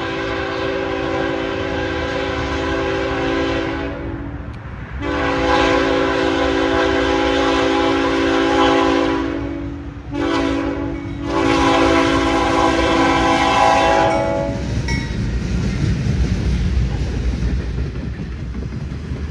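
Freight locomotive's multi-chime air horn sounding a long, long, short, long sequence, the standard grade-crossing signal; the horn stops about two-thirds of the way through and the train's rumble carries on as it rolls past.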